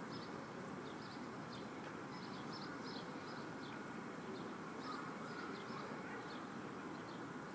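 Small birds chirping repeatedly in short, high calls over a steady rumble.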